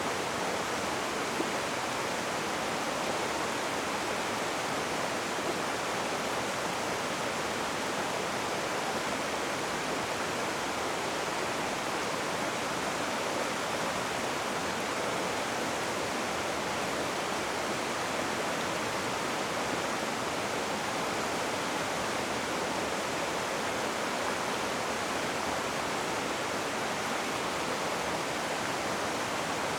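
Rushing river water: a steady, even rush with no separate splashes or changes.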